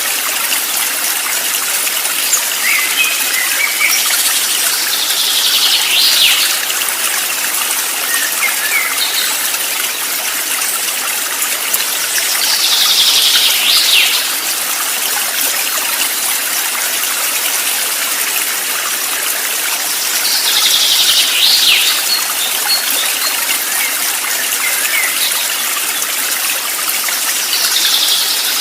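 Stream water running steadily, with a bird calling about every seven to eight seconds: a short phrase of high notes that slide downward.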